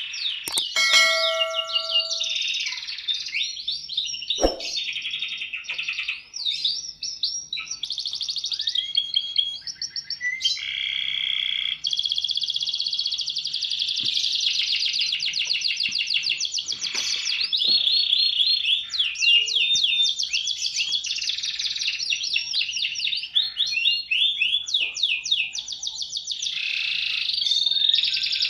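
Domestic canary singing a long, nearly unbroken song of rapid trills and rolling repeated notes, changing phrase every second or two.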